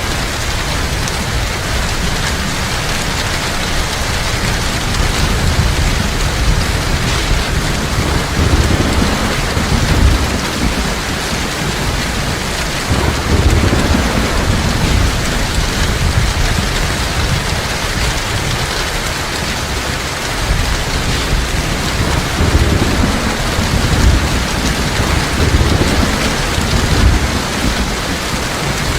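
Heavy rain falling steadily, with low rolls of distant thunder swelling and fading several times.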